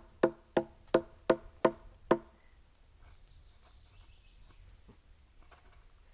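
Quick series of hard blows driving an edged tool into a log, six strikes about three a second, each with a short pitched wooden ring, then they stop about two seconds in.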